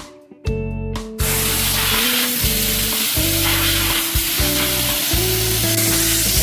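Kärcher SC4 steam cleaner jetting steam: a loud, steady hiss that starts about a second in, over background pop music with a bass line.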